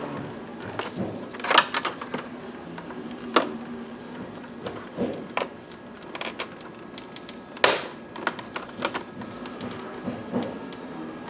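Scattered clicks and knocks of tools and parts being handled during seat belt assembly work, with a sharp knock about three-quarters of the way through, over a faint steady hum.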